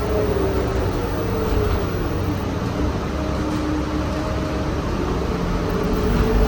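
City bus on the move, heard from inside: a steady rumble of engine and road noise, with a faint whine that falls in pitch over the first seconds and rises again near the end.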